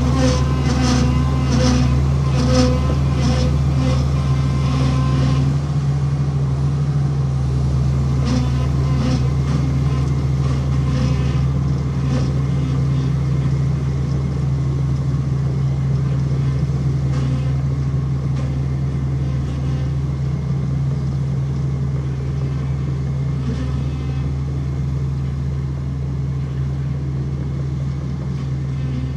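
Heavy diesel earthmoving machinery running steadily under load, with a rhythmic clanking of about two knocks a second for the first few seconds, then only occasional knocks.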